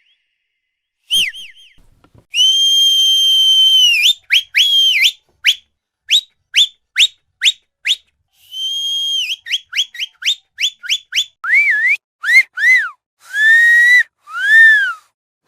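A sequence of whistles. It begins with a brief chirp and a long steady high note, followed by a fast run of short upward-flicking chirps. A second steady note and more chirps come next, and near the end the notes are lower and swoop up and down.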